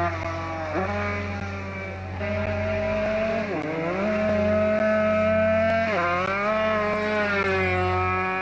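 Rally car engine running hard at a steady high pitch, the pitch dropping and picking up again three times, about one, three and a half and six seconds in, as with gear changes.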